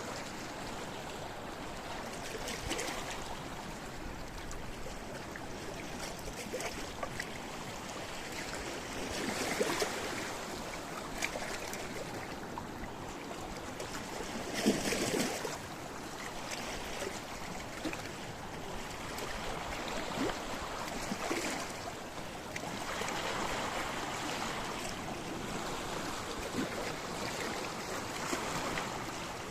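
Sea waves washing against a rocky shore: a steady wash of surf with surges as waves break, the loudest splash about halfway through.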